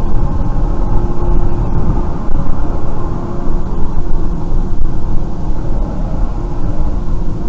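Loud, steady rumble of a moving vehicle, low and dense, with a faint steady hum running through it.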